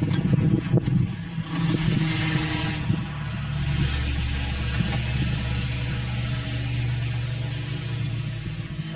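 Engine of a brick-clay grinding mill running steadily with a low hum, with a few knocks in the first second.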